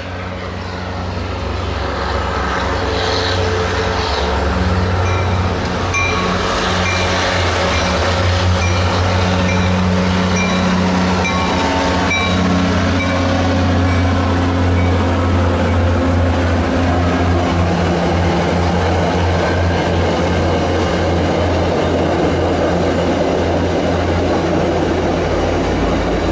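MBTA commuter rail train running past: a steady low drone from its diesel locomotive over the rumble of the coaches on the rails. It builds up over the first few seconds, then holds steady.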